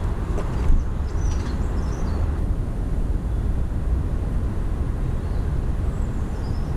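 A few faint, short high chirps of small garden birds over a steady low rumble of background noise.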